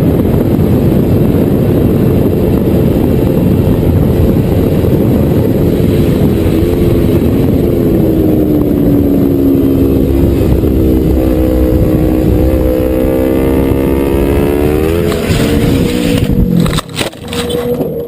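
Motorcycle engine running under heavy wind rumble. Its note falls and then climbs again, before the sound breaks off abruptly near the end with a few sharp knocks.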